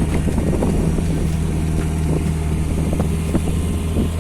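Motorboat engine running steadily with an even low hum, a few short knocks over it.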